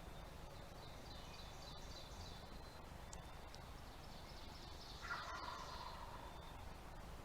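A wild turkey gobbling once, a falling rattle about five seconds in, with high, quick bird notes earlier.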